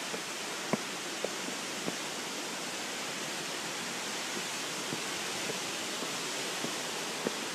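Steady rushing of a waterfall, an even hiss of falling water with no change. A few faint clicks or taps sound in the first couple of seconds.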